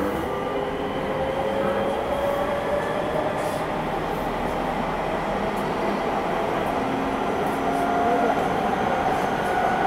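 Seibu Railway 6000 series electric train running at speed: a steady rumble of wheels on rails, with a faint whine slowly rising in pitch.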